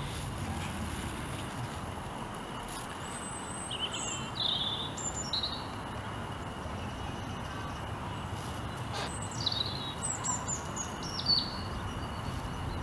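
Songbird singing outdoors: two phrases of short, high, falling chirps, one about three seconds in and another about nine seconds in, over a steady low background hiss.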